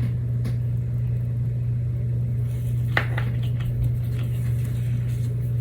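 A steady low hum, even throughout, with a single light tap about three seconds in.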